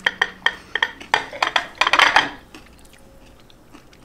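Crunching of a crispy oven-baked zucchini chip being chewed: a quick run of sharp crackles over the first two seconds or so, then it dies away.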